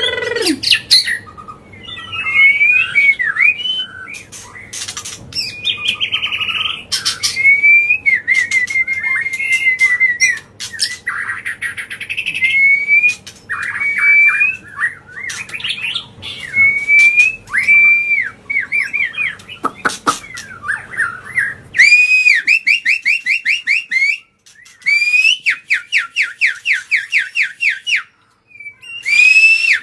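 White-rumped shama (murai batu) singing: loud varied whistles, glides, trills and sharp clicking notes. About two-thirds of the way in the background hum drops out and the song turns to fast runs of repeated rising notes, about seven a second.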